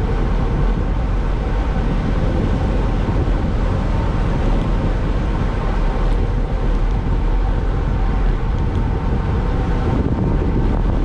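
Steady rushing wind noise on the microphone of a bicycle descending at about 37 mph into a headwind, with a low, even rumble underneath.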